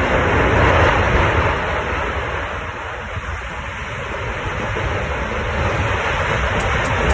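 Tornado wind rushing over the microphone: a loud, steady noise that eases a little about three seconds in and then builds again.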